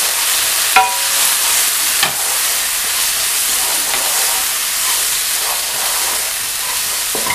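Onion-tomato masala with ground spices sizzling in oil in a nonstick wok, stirred and scraped with a wooden spatula, with two sharper knocks about a second in and at two seconds.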